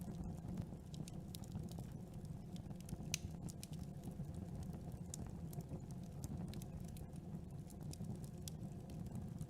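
Campfire burning: a steady low rumble of flames under frequent sharp crackles and pops of burning wood, one pop standing out about three seconds in.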